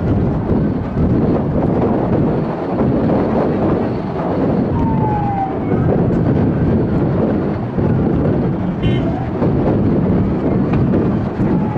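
Emergency vehicle siren wailing faintly over loud, steady noise.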